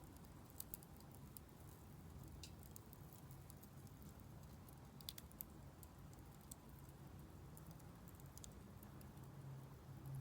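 Wood fire in a Solo Stove Campfire fire pit crackling faintly, with scattered sharp pops at irregular times.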